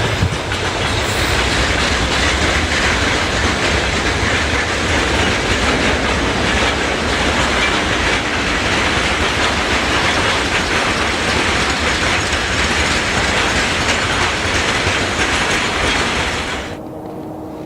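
ES2G "Lastochka" electric train running at speed: a loud, steady rush of wheels on rail with a clickety-clack over the rail joints. It cuts off suddenly near the end.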